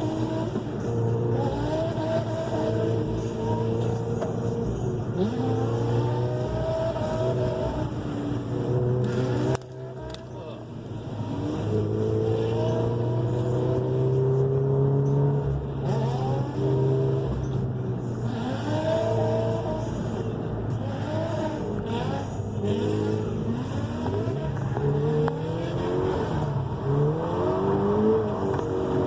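Car engine revving up and down repeatedly as the car is driven hard through corners while drifting. The sound drops off abruptly about ten seconds in, then builds back up.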